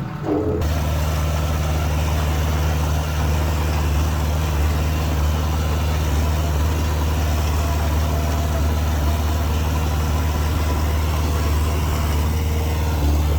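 Diesel engine of heavy earthmoving machinery running steadily at a low, even idle, with a deep constant hum.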